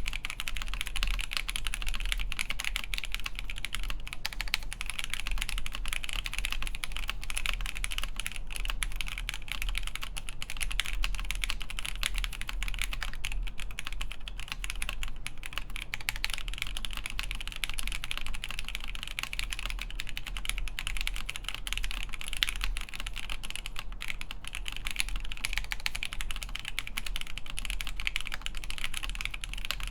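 Continuous typing on a Han's 80 ver. 2.1 (NEO 802) mechanical keyboard with Alpaca v2 linear switches lubed with 205g0, an FR4 plate and Hammerworks CRP keycaps: a steady, dense stream of keystrokes without pauses.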